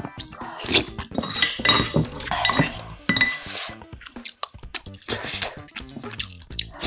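Cutlery scraping and clinking against a rice bowl, a run of sharp clicks and scrapes, some with a brief ringing tone, as the last of the rice is scraped out.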